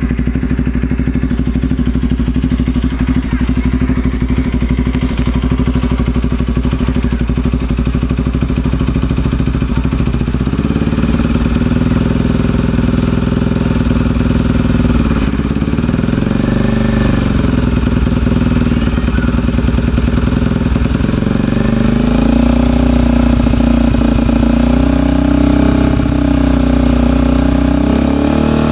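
Bajaj Pulsar RS200's single-cylinder engine idling while warming up after a cold start. It runs steady for about ten seconds, then its pitch shifts, with a few gentle rises and falls in engine speed.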